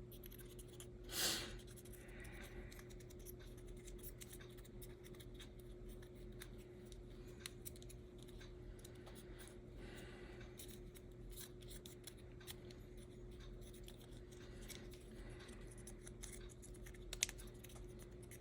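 Light clicks and scratching of small parts being handled at a workbench, with a short loud hiss about a second in and a sharp click near the end. A steady hum runs underneath.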